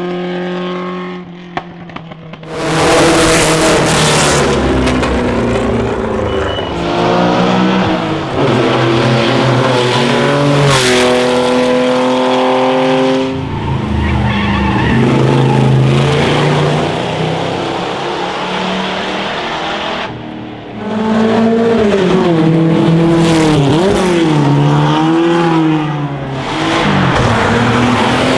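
Classic racing car engines accelerating hard uphill, revving up through the gears with the pitch dropping back at each shift. The engine noise dips about two-thirds of the way through, then another burst of revving follows.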